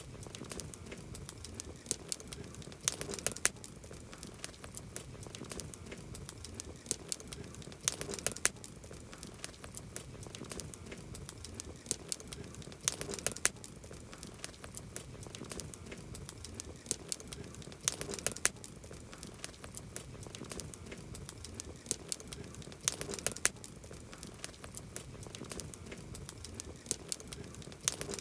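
Campfire burning, with continuous soft crackling and sharp wood pops; louder clusters of pops come about every five seconds.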